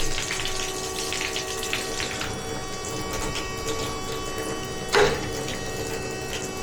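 Bosch gas water heater running with water flowing through it, giving a steady hum of several held tones: the humming fault to be repaired. A brief knock about five seconds in.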